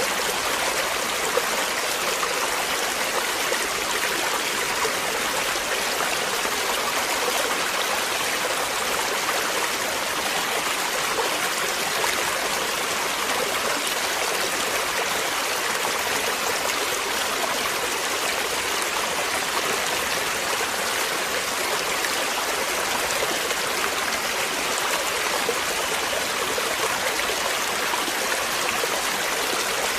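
Running water of a stream, a steady rushing and trickling with no breaks.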